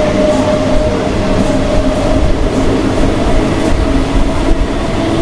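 MEMU electric multiple-unit train running at speed: a steady rumble of wheels on track with a steady hum running through it.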